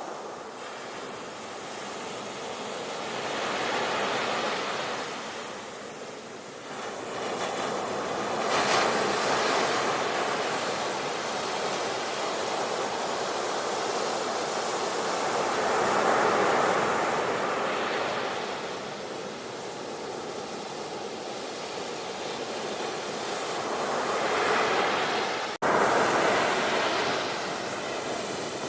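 Sea waves breaking and washing ashore, the surf swelling and fading in slow surges several seconds apart. Near the end the sound cuts out for an instant at a splice and comes back louder.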